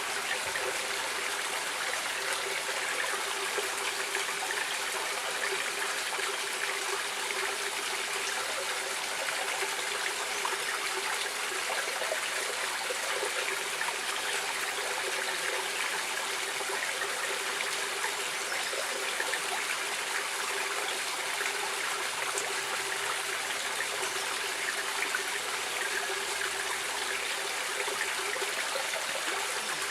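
A stream of water running and trickling steadily, an even rush with no change throughout.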